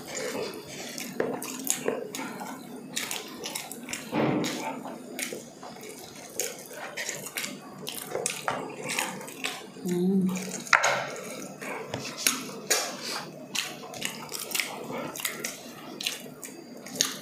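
Close-up mouth sounds of eating saucy pork ribs by hand: wet chewing, lip-smacking and sucking, with many irregular sharp smacks and clicks. A short hum about ten seconds in.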